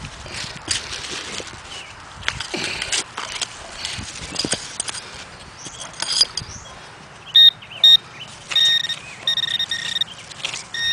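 Hand digging tool scraping and chopping into loose gravelly dirt. About seven seconds in, a metal detecting pinpointer, a Garrett Pro-Pointer, gives two short high beeps. It then breaks into a run of rapid beeps, the sign that it is right on a metal target in the hole.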